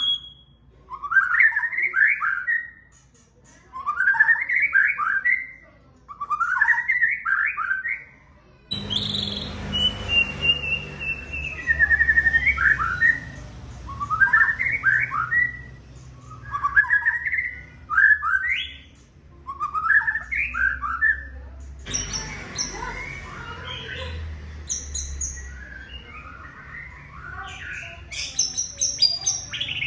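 White-rumped shama (murai batu) singing, short repeated phrases about every two seconds, then a busier run of varied whistles and chirps in the last third. A low background rumble comes in about nine seconds in.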